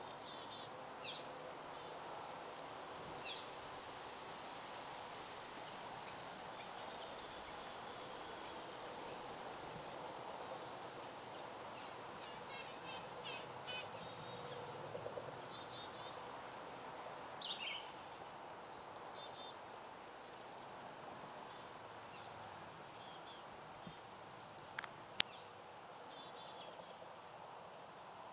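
Several small birds chirping and trilling in short high calls over a steady outdoor background hiss, with one sharp click about three-quarters of the way through.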